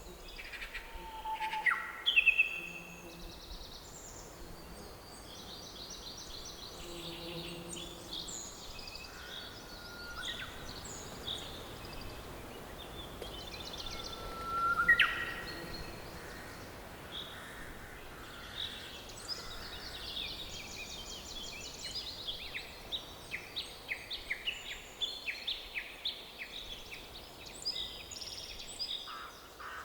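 Several songbirds singing and calling, with a loud whistled note about halfway and a quick run of repeated chirps later on, over a faint steady hiss of forest background.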